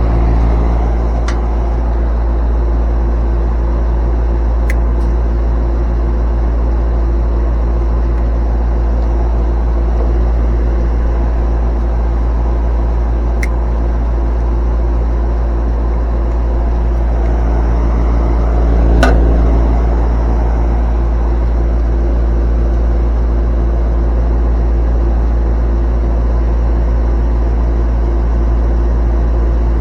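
Air-conditioning condensing unit running, its compressor on, with a steady hum. There are a few light clicks and a brief swell about two-thirds of the way through.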